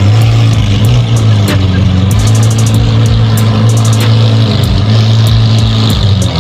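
A supercar engine held at steady revs, mixed with loud background music that has a deep bass line and a regular beat.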